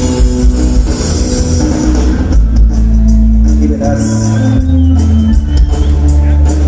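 A live band playing loudly, with drum kit and deep sustained bass notes under the melody.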